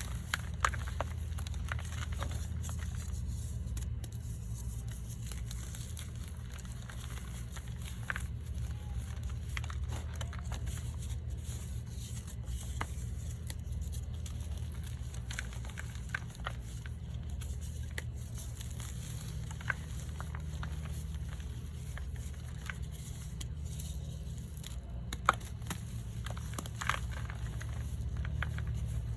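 Reformed blocks of gym chalk and baby powder being crushed and crumbled, giving scattered soft crunches and crackles with a few sharper snaps, over a steady low hum.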